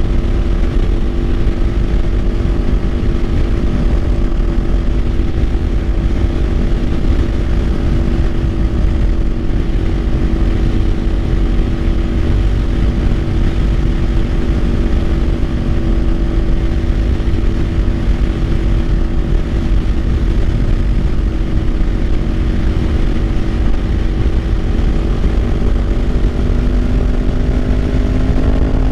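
Kawasaki Ninja 500's parallel-twin engine running at a steady cruise, its note rising slightly near the end as the bike picks up speed, over heavy wind rush on the microphone.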